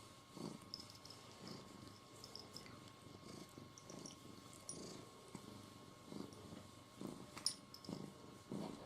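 A domestic cat purring softly, in slow repeated pulses.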